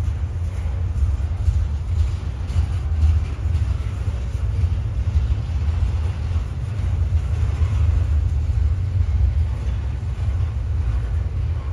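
Double-stack container cars of a Norfolk Southern intermodal train rolling past, a steady low rumble.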